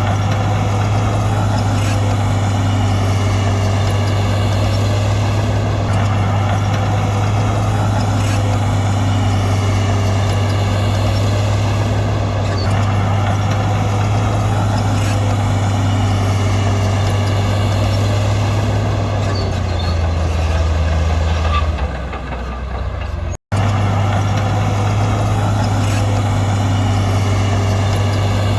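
Heavy diesel earthmoving machinery running steadily, a constant low engine drone with a fainter whine above it that rises and falls every few seconds. The sound cuts out for an instant near the end and then resumes.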